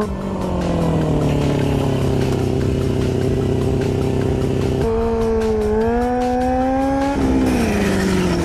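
Motorcycle engine held at steady high revs, its pitch easing slowly down. About five seconds in it jumps to a higher note and climbs, then falls back again near the end.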